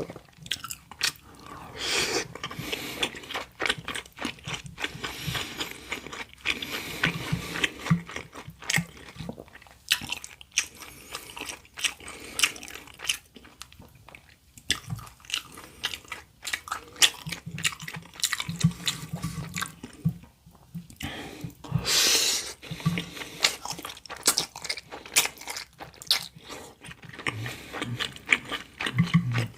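Close-miked eating: a person biting and chewing dumplings and stir-fried udon, with irregular crunching and wet mouth clicks throughout and one louder crunch about 22 seconds in.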